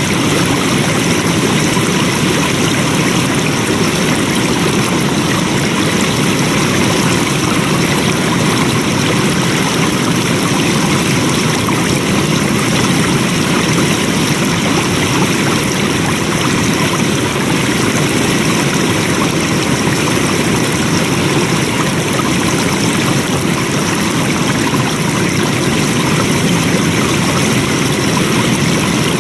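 Water flowing steadily: a continuous, even rushing that does not change.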